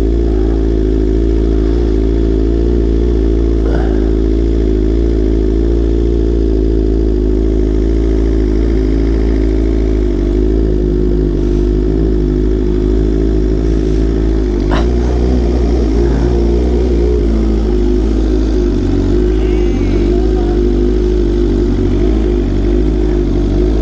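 Motorcycle engine running steadily at a low, even speed, its pitch wavering only slightly.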